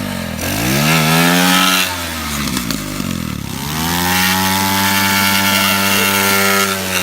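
Pit bike engine at full throttle: its pitch climbs and holds high, sags about two to three seconds in, then climbs again and holds high.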